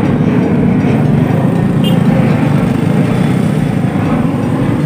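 Steady, loud low engine rumble.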